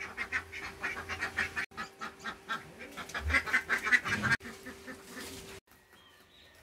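Rapid, repeated honking bird calls, about five or six a second, broken by sudden cuts; after the last cut, a little over five seconds in, the sound drops to faint chirps.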